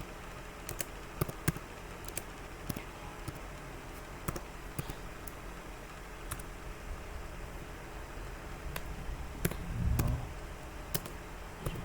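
Scattered single clicks of a computer keyboard and mouse, irregularly spaced, over a steady low electrical hum.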